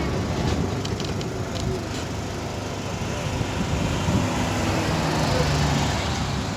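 Tram ride: a steady low rumble of the tram running on its rails, with a few sharp clicks in the first two seconds.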